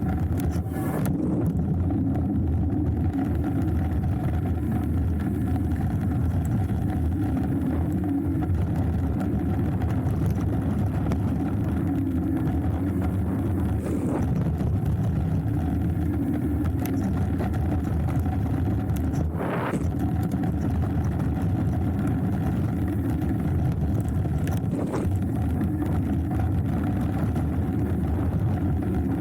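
Hardtail mountain bike rolling fast down a dirt trail: a steady rumble of tyres and wind on the camera, with a few sharp knocks and rattles from bumps.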